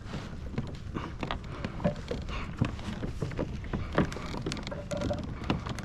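Irregular knocks and clicks from a fishing kayak and its tackle while a hooked fish is reeled in, over a low wind rumble on the microphone.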